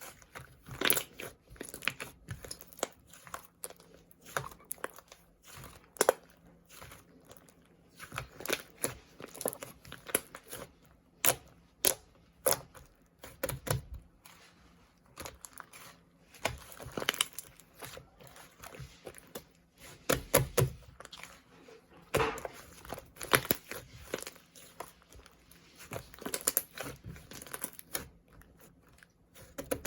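Slime being squished and stretched by hand, giving irregular crackling clicks and pops, some sharp and loud.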